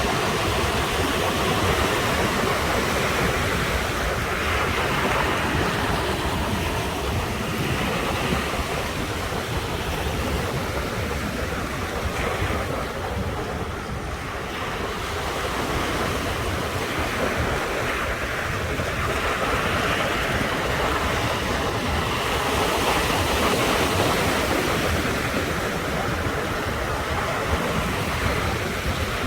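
Ocean surf washing continuously onto the shore, swelling and easing in slow waves, with wind rumbling on the microphone.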